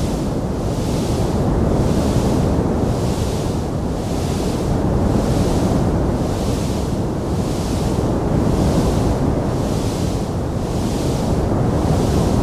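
Wood fire burning in a stone fireplace: a steady, dense rushing noise, with a higher hiss that swells and fades about once a second.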